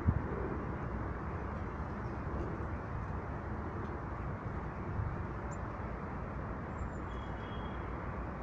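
Steady low outdoor background rumble, with a few faint, short, high bird chirps in the second half.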